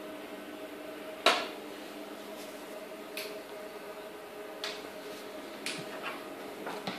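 Egg incubator running with a steady hum, with several sharp clicks and knocks, the loudest about a second in.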